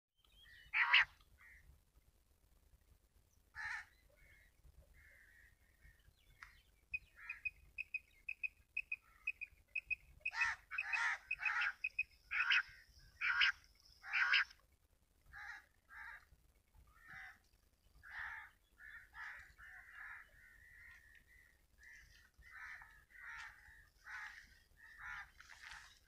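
Wild birds calling in open farmland. A quick run of high repeated notes, about four a second, comes a third of the way in. The loudest part is a string of harsh calls around the middle, and shorter calls follow to the end.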